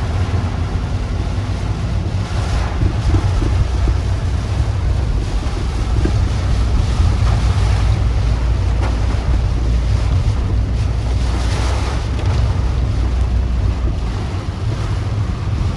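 Typhoon wind and heavy rain, with a deep, steady rumble of wind buffeting the microphone. The noise swells a few times as gusts come through.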